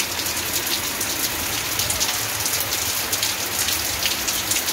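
Steady rain falling on clay tile roofs, a dense, irregular patter of drops.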